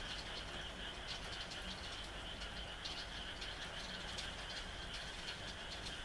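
Frog chorus calling steadily over rain, with scattered drip ticks.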